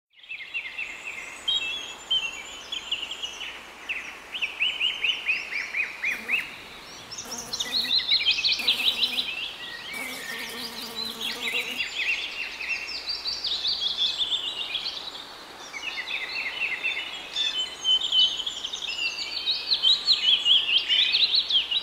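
Songbirds singing, a busy chorus of rapid trilled chirps made of quick falling notes. A fainter low tone with a few clicks comes in from about six to twelve seconds in.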